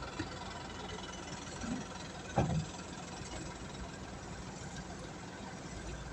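Vehicle engine running steadily, with a short thump about two and a half seconds in.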